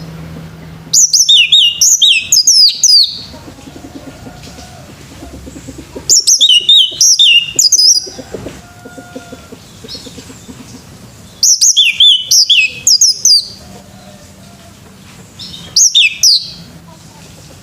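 Male orange-headed thrush singing: four loud phrases of rapid, sweeping whistled notes, each one to two seconds long and a few seconds apart, the last one shorter.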